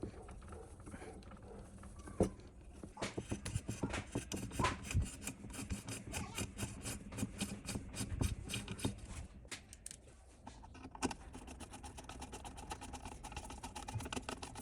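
Rapid scraping strokes of a hand tool working a part, loudest and most uneven in the first half. They pause briefly past the middle, then carry on as finer, more even strokes.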